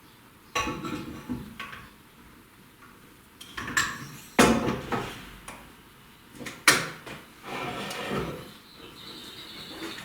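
Irregular metallic clanks and knocks, about half a dozen with short ringing tails, from metal tooling being handled on a valve-seat cutting machine with a cylinder head in it.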